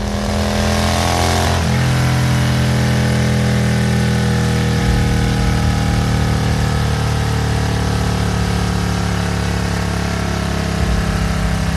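Motorcycle engine held at steady high revs during a burnout, its pitch dipping slightly about a second and a half in. A hiss sits over it for the first second or so.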